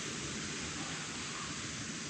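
Steady rushing of a clear mountain stream, an even wash of water noise without a break.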